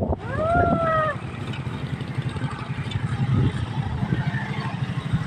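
A motor vehicle's engine and road noise, heard from on board while moving: a steady low rumble throughout. Near the start comes a short pitched sound that rises and then falls.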